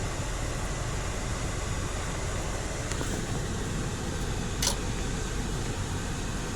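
Automatic car wash machinery and foam spray on the car, heard from inside the cabin as a steady rushing hum, with one brief tick about two-thirds of the way through.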